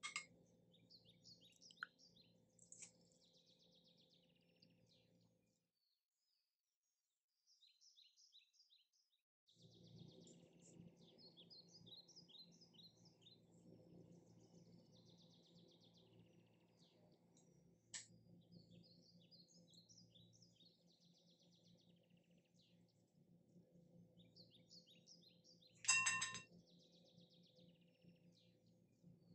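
Faint twittering of small birds, repeated short high chirps, over a low steady hum, with a few soft clicks. About 26 s in there is one short ringing clink, the loudest sound here.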